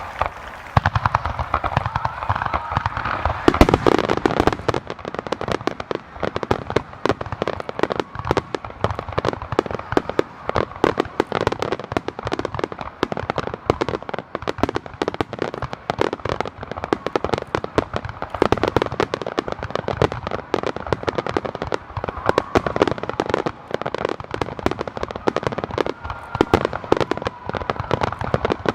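Fireworks display: a dense, rapid run of pops and crackles from bursting shells, with a louder burst about three and a half seconds in.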